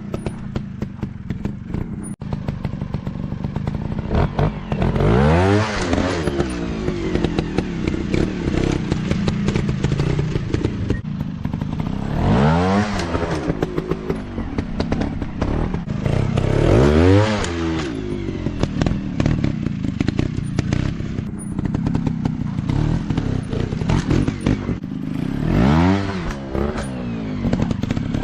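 Dirt bike engines running throughout, with four sharp revs that climb and fall back: about 5 s in, about 12 s in, about 17 s in, and near the end.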